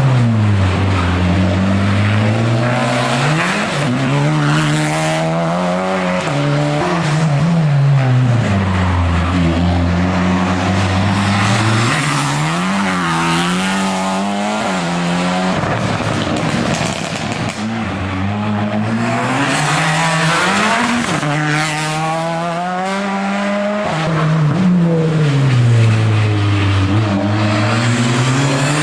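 Race car engine at full effort on a hillclimb course: the revs drop sharply several times as it brakes and downshifts for the bends, then climb again through quick upshifts. The car runs continuously and loudly throughout.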